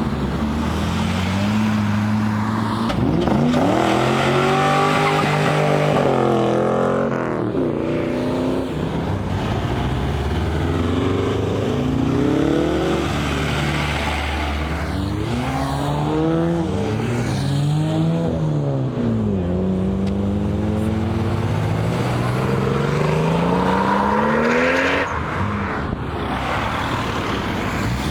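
Car engines revving hard and accelerating, the pitch climbing and dropping again and again, with more than one car's sweeps overlapping.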